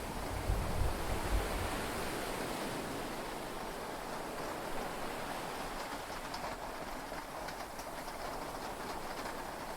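Steady rain and sea noise heard from inside a yacht cabin, with the tail of a low thunder rumble fading out over the first second or so. Faint scattered raindrop ticks come through in the second half.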